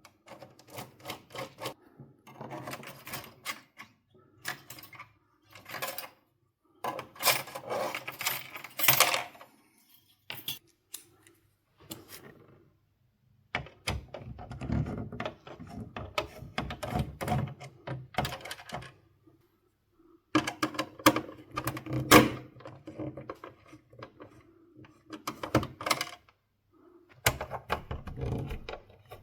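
Bursts of small clicks and clatter from a PlayStation 4 console being taken apart by hand, with plastic casing parts, screws and tools being handled.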